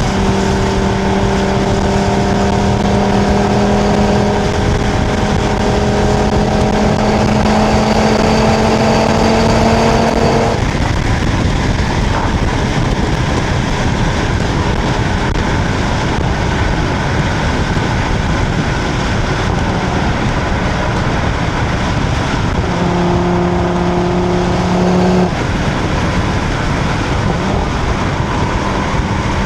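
2025 Audi RS3's exhaust recorded at the tail, over constant wind and tyre noise at Autobahn speed. The engine note climbs slightly under light throttle and drops out about ten seconds in. It returns as a steady note for a couple of seconds near the end.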